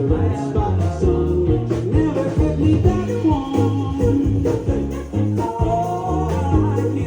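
Live rock band playing through a club PA: bass, drums and guitar, with a sung vocal line.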